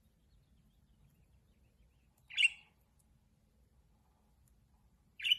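Pet Indian ringneck parakeet giving two short calls about three seconds apart.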